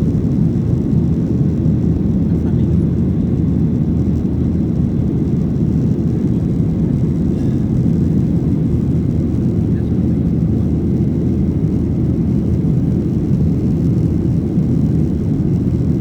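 Boeing 737-800's cabin noise heard from a window seat: a loud, steady, deep rumble of the engines and airflow that stays level throughout.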